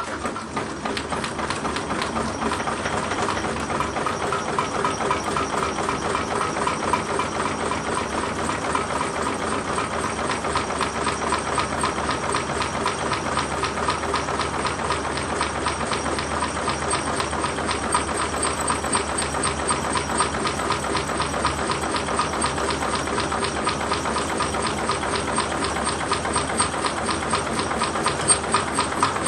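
Small model five-cylinder Stirling engine built from tin cans, running steadily with a fast, even mechanical clatter.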